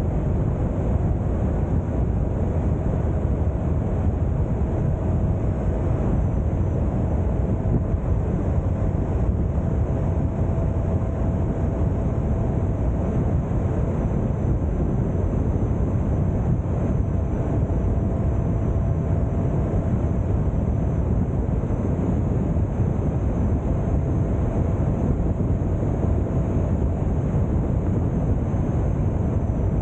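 Motorcycle riding at a steady speed, its engine running evenly under a constant rush of wind on the microphone.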